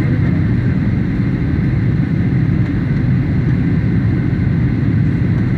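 Steady cabin noise of a Boeing 737 in flight, a constant low drone of engines and airflow.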